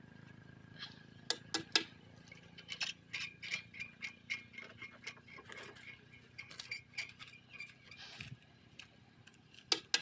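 Sharp metal clinks, most likely tyre tools at work on a truck tyre: three in quick succession about a second and a half in and two more near the end, over a steady run of light, rapid ticking at about three ticks a second.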